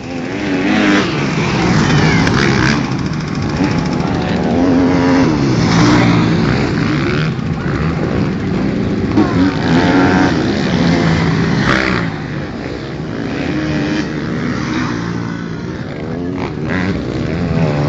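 Several 250cc grasstrack racing motorcycles revving hard, their engine notes overlapping and rising and falling in pitch as they accelerate and shift. The engines are loudest for the first two-thirds, then ease off a little.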